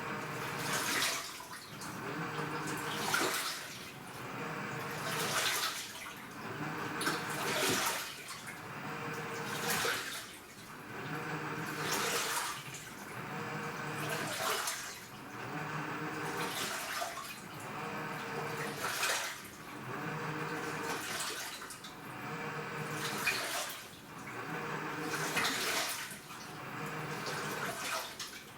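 AQUA washing machine with a direct-drive inverter motor agitating its load in water. It swishes back and forth in strokes about every two seconds, with a motor hum and water sloshing in each stroke.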